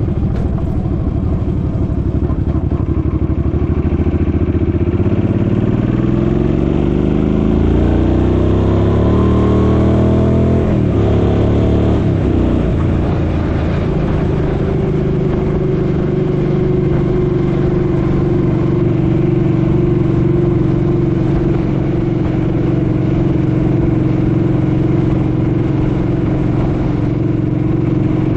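Suzuki Boulevard M50's 805 cc V-twin engine under way: the pitch rises over several seconds of acceleration, drops about twelve seconds in as it shifts up, then holds steady at cruising speed. Wind noise rushes under the engine throughout.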